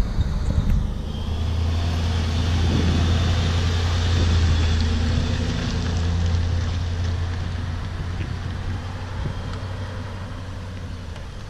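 A vehicle's engine running at a steady low pitch, growing louder until about the middle, then slowly fading away.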